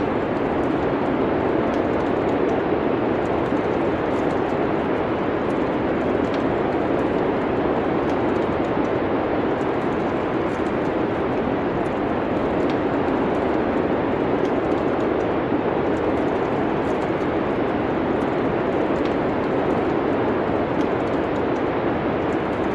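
Steady wind-like rushing noise of a snowstorm mixed with the faint, scattered crackles of a wood fire.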